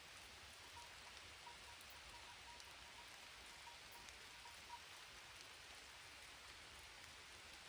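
Light rain falling steadily, a faint even hiss with a few scattered drop ticks.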